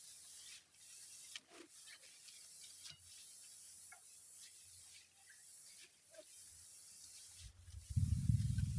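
Steady hiss of rain with scattered small knocks and rubbing sounds. Near the end, a loud low rumble with a fluttering quality starts.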